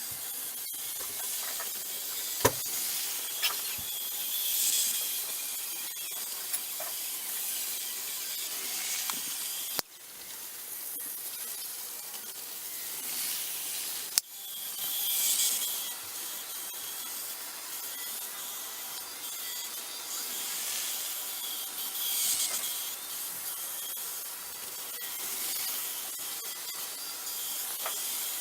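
Several N-gauge model trains running on track: a steady high whirr of small motors and metal wheels on the rails that swells as trains pass close by. A few sharp clicks stand out, the loudest about two and a half seconds in and about fourteen seconds in.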